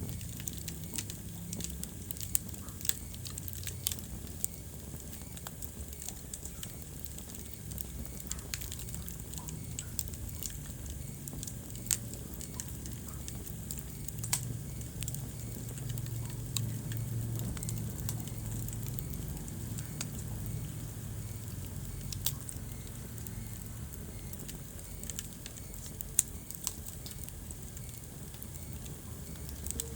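Wood fire burning in a fireplace: a low steady rumble of the flames with irregular sharp crackles and pops from the logs.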